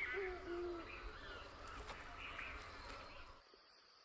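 Wildlife ambience: a run of short, low hooting calls repeated a few times a second, with higher chirping calls over them, cutting off suddenly about three and a half seconds in.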